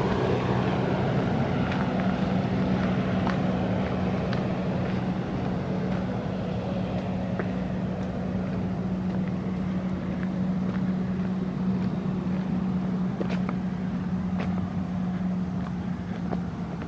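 Jet ski engine running steadily, a constant droning hum that slowly fades.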